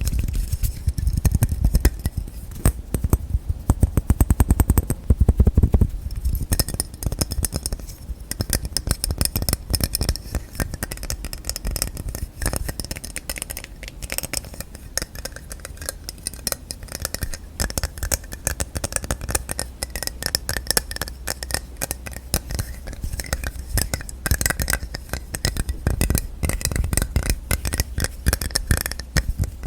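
Hands tapping fast and continuously on containers and their lids, many taps a second. The taps are heavier and deeper for about the first six seconds, then lighter and brighter.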